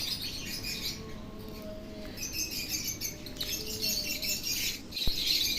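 Many small caged birds chirping and chattering together, a dense twittering.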